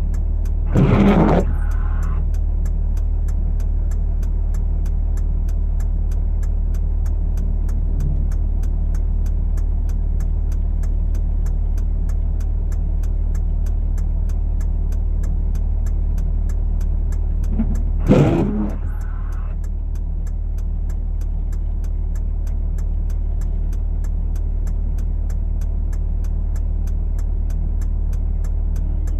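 Steady low drone of a vehicle's engine and road noise from inside the cab. Two short, louder noises cut through it, about a second in and again about 18 seconds in.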